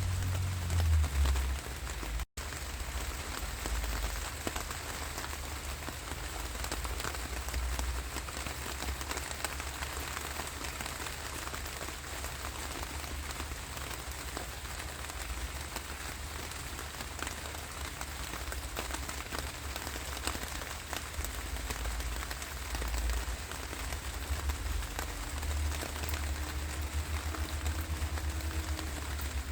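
Steady rain falling, a dense hiss of many small drop hits, over a low rumble. The sound cuts out for an instant about two seconds in.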